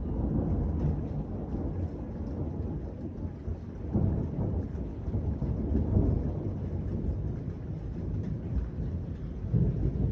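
Thunder rumbling in long rolls, swelling several times, with rain falling.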